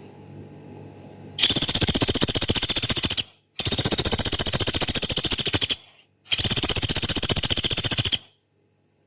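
Pelatuk beras, a small woodpecker, giving three long, harsh, rapid rattling trills of about two seconds each, with short breaks between them.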